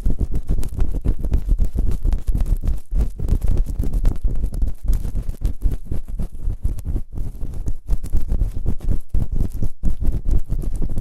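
Fast, rough rubbing and scraping directly on a binaural microphone's ears in quick irregular strokes, deep and loud in the low end.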